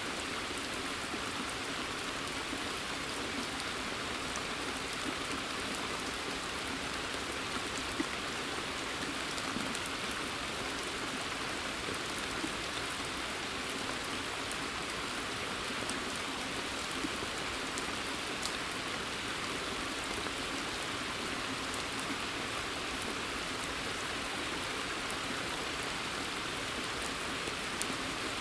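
Steady rain falling in a forest, an even hiss with now and then a sharper single drop.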